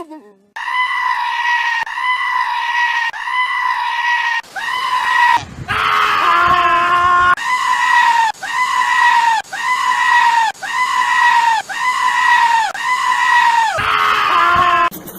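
Goat screaming in short, high-pitched, even cries, about two a second, with a longer, wavering call in the middle and another near the end.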